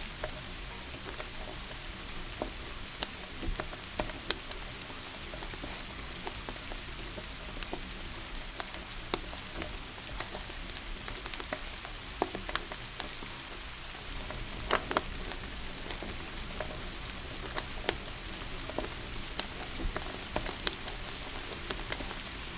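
Steady rain hiss with the irregular sharp crackles and pops of a wood fire burning in a fireplace.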